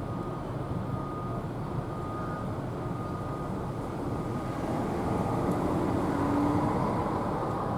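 A vehicle passing by, its noise swelling to a peak about six seconds in and then easing off over a steady background hum.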